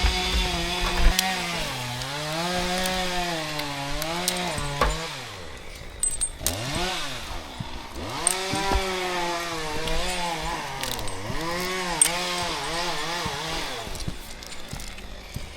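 Two-stroke chainsaw running at high revs and cutting wood: its pitch sags and recovers under load. It drops off throttle about five seconds in, is revved again in quick blips, cuts again, and dies away near the end.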